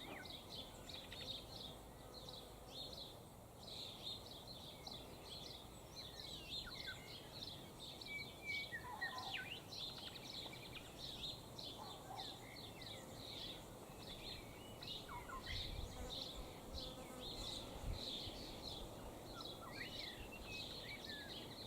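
Faint outdoor chorus of birds: a quick, steady series of short high chirps, several a second, with a few lower, separate bird calls scattered through.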